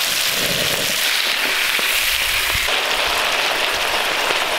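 Peppers, onions and pieces of wild hog meat sizzling in butter in a wok, a steady frying sizzle.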